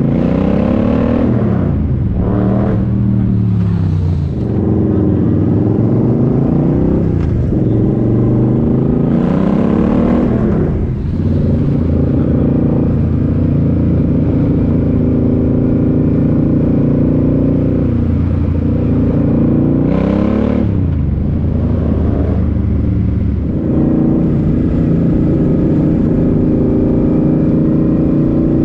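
Suzuki C50 Boulevard's V-twin engine through a Cobra aftermarket exhaust, heard from the rider's seat. It revs up and falls back several times in the first ten seconds or so, runs steadier for a stretch, revs again about twenty seconds in, then settles into a steady cruise.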